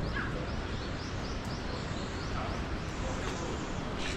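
Many small birds chirping, with short, quick, falling calls repeated over a steady outdoor background hum.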